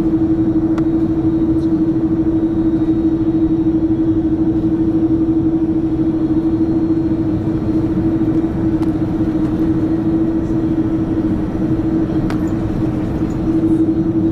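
Steady cabin noise inside an Airbus A330 airliner: a constant low rumble with a strong, unchanging hum, and a few faint ticks.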